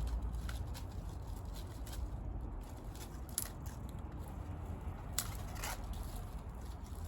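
Wood bonfire crackling, with scattered sharp snaps (the clearest about three and a half and five seconds in), over a low steady rumble.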